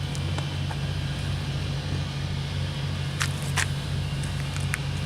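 An engine idling with a steady low throb, and two short sharp clicks a little past three seconds in.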